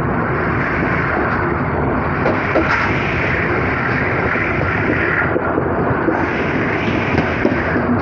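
Passenger train running at speed, heard from an open carriage window: a steady loud rumble of wheels on rails mixed with rushing air, with a few faint clicks.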